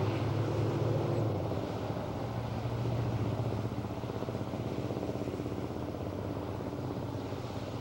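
A steady engine hum, easing a little after a second or two.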